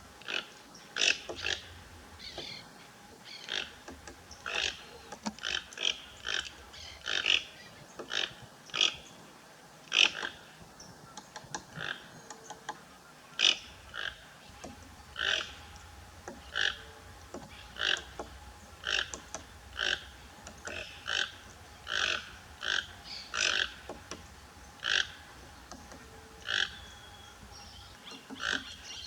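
A bird giving short, harsh calls over and over, about one or two a second, with a faint steady tone underneath.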